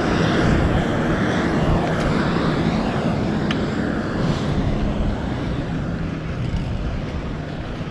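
Steady wind rush and rumble on the camera microphone with road noise from a fixed-gear bike rolling along, easing off a little toward the end.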